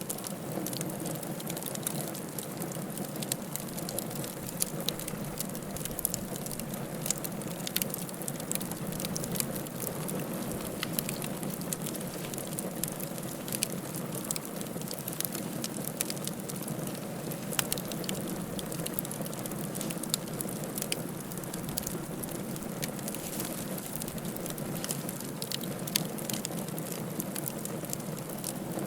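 Wood fire crackling: a steady low rush of flame with irregular sharp pops and snaps scattered throughout.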